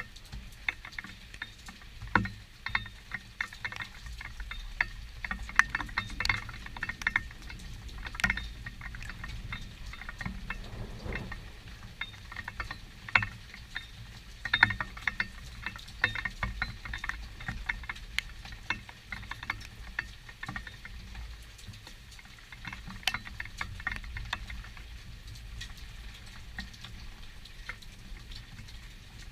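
Rain during a thunderstorm: drops pattering and ticking irregularly, in uneven clusters.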